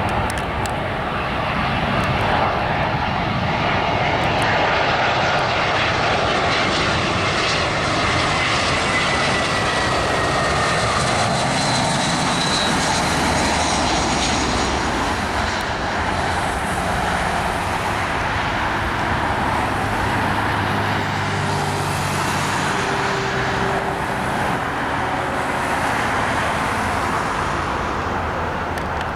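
Airbus A320-232 jet airliner with IAE V2500 engines on arrival: a steady, loud rushing jet noise, with a faint falling whine in the first half.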